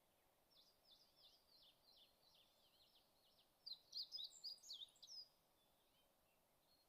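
Faint bird chirping: a run of quick, sweeping chirps that grows louder and denser for about a second and a half past the middle, then stops.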